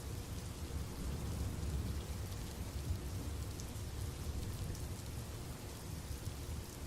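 Steady rain falling, with a deep low rumble running underneath.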